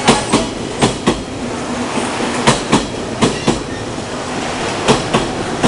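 JR Kyushu 813 series electric train pulling out past at close range: steady rolling noise with its wheels clicking over rail joints in quick pairs, one pair for each bogie's two axles, five times.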